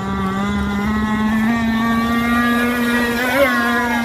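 Zenoah 26cc two-stroke engine of an RC V-hull boat running steadily at high speed, its pitch creeping up slightly, with a brief wobble in pitch about three and a half seconds in.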